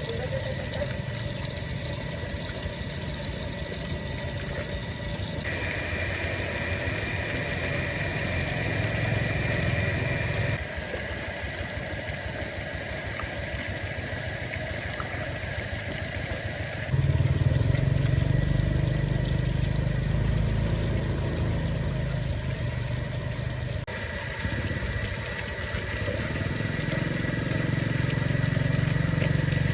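A motor or machine running steadily, its sound changing abruptly several times, with a heavier low hum from a little over halfway through.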